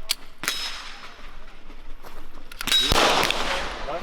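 Gunshots on an outdoor range: two sharp cracks in the first half second, then a louder group of shots with a ringing tail about three seconds in.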